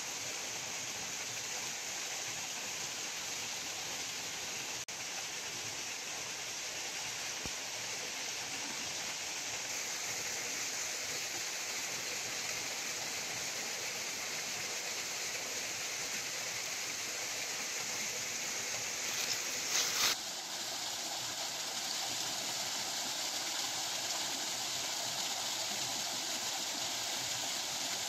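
Steady rush of water from a waterfall and stream. There is a brief louder surge about two-thirds of the way through.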